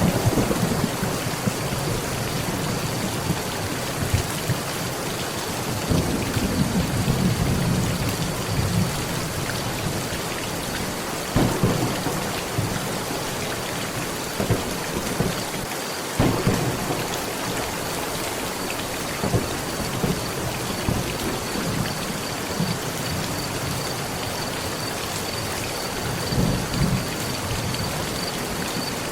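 Heavy rain falling steadily on a metal roof, with thunder rumbling several times and two sharper cracks, one about a third of the way in and one a little past the middle.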